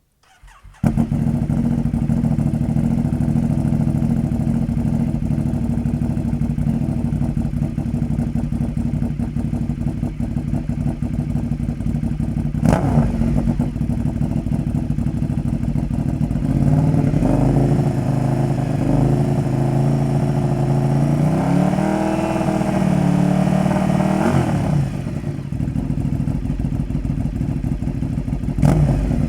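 Ducati 848/1098/1198 L-twin engine through a Toce slip-on exhaust, starting up about a second in and then idling steadily. There is one quick throttle blip in the middle, then a longer rise in revs held for a few seconds before dropping back to idle, and another short blip near the end.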